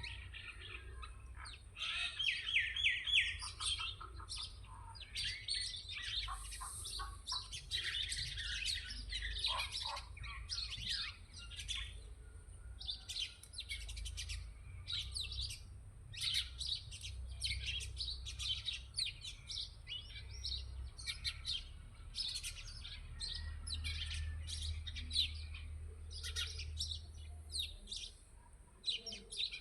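Small birds chirping, many short calls overlapping continuously, over a low rumble.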